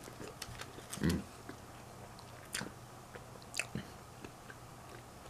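A person chewing a mouthful of fried chicken sandwich with crunchy breading, close to the microphone. A few separate crisp crunches and mouth clicks are heard, the loudest about a second in.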